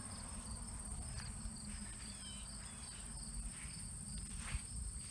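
Insects trilling in a steady, high-pitched outdoor chorus over a low rumble, with a few short faint chirps.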